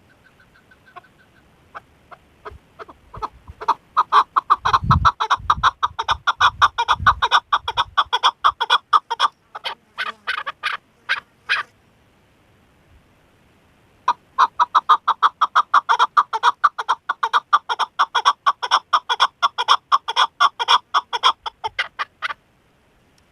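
Chukar partridge calling: a rapid, clucking series of repeated 'chuk' notes in two long bouts of about eight seconds each, with a short pause between them. A few low thuds come in during the first bout.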